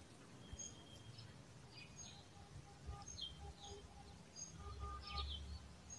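Faint birds chirping in the background: scattered short high chirps and quick falling notes, with a few softer repeated lower notes, over a faint low outdoor rumble.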